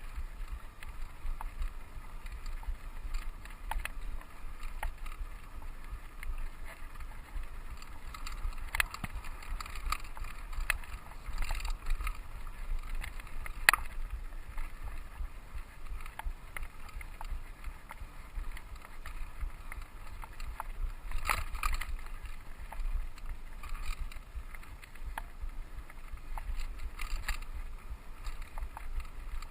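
Mountain bike riding along a dirt trail: a steady low rumble with scattered clicks and rattles from the bike jolting over bumps, the sharpest about a third of the way in.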